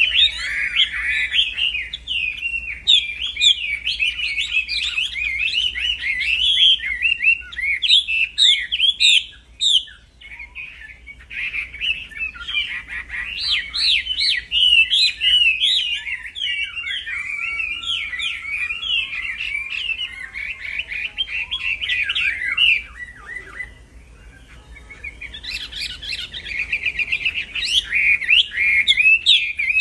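Wambi songbird singing a fast, nearly unbroken stream of high twittering chirps, pausing briefly about ten seconds in and again past the twenty-second mark before starting up again.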